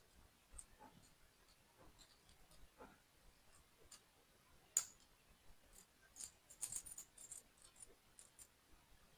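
Faint, scattered clicks and taps of small plastic toy pieces being handled and fitted together during assembly. One sharper click comes a little before halfway, and a quick run of clicks follows about two-thirds through.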